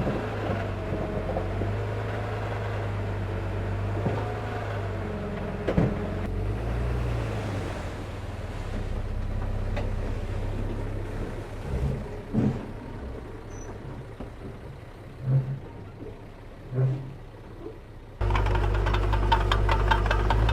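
Diesel engine of heavy earthmoving machinery running, its pitch shifting during the first few seconds, then quieter for a while with a few short knocks. Near the end it turns abruptly to a much louder engine sound.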